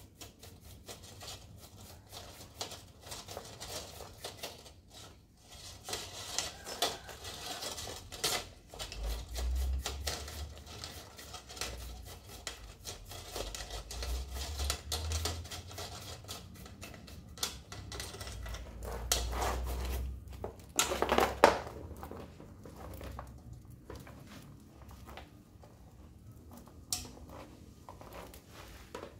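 Irregular clicks, taps and clatter of small metal tools and bicycle parts being handled, with a louder clack about twenty-one seconds in.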